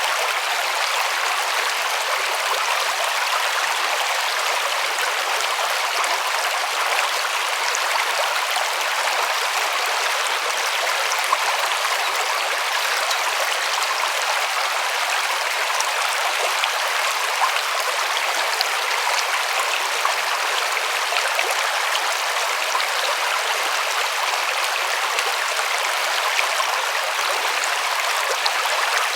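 A river's water rushing and splashing over stones, a steady, even sound with no change throughout.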